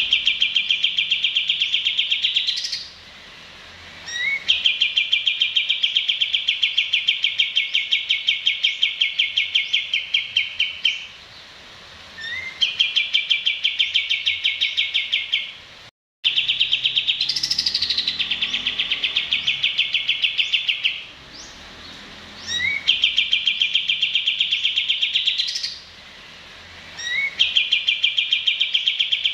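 Songbird singing in repeated bouts: a short rising chirp, then a long fast trill of even notes lasting about two to six seconds, followed by a short pause before the next bout. The audio cuts out for an instant about halfway through.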